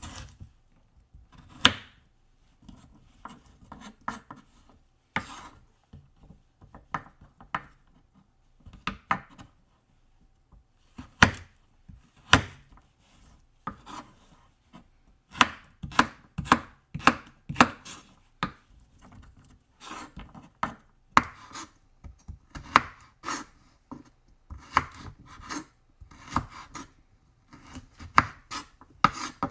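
Knife chopping food on a cutting board: sharp, irregular knocks, sparse at first and coming faster, about two a second, in the second half.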